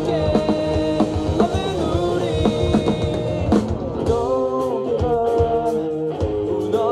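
Live rock band music played loud: a drum kit beat under sustained, wavering guitar and vocal lines, with a sharp accent about three and a half seconds in.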